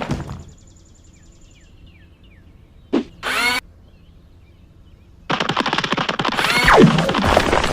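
Sci-fi robot battle sound effects: faint mechanical clicking and small chirps, a short whir about three seconds in, then, a little past five seconds in, a loud, dense barrage of rapid blasts, each falling in pitch.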